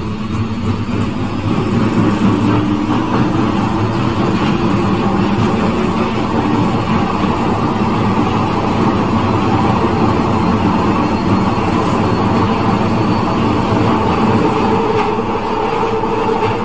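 Glasgow Subway train running through its tunnel, heard from inside the carriage: a loud, steady rumble of wheels on rail, with a faint high whine partway through.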